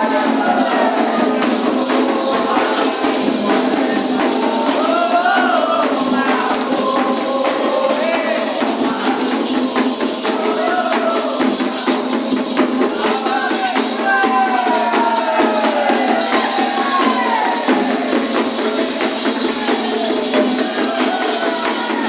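Candomblé ritual song: voices singing a gliding melody over fast, dense percussion with a shaken, jingling sound.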